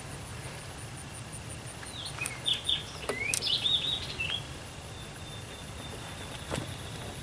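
A songbird singing one short phrase of quick, sliding whistled notes, starting about two seconds in and lasting about two seconds, over steady outdoor background noise.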